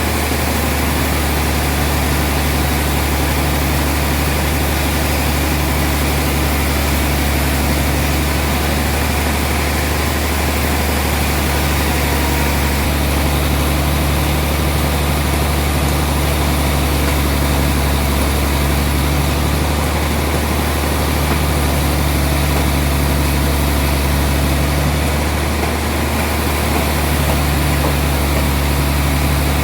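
Sawmill machinery running steadily, a deep even hum under a wide hiss, with no break or change in pace.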